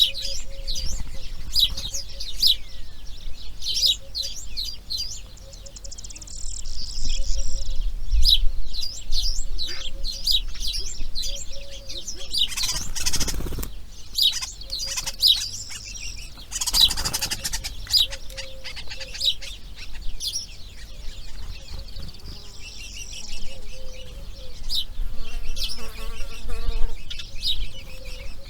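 Small birds chirping in quick, repeated high notes, with two short rushing noise bursts about halfway through and a brief buzzy call near the end.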